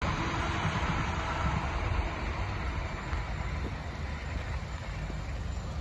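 Steady low rumble with a broad hiss, the sound of a vehicle running or of road traffic.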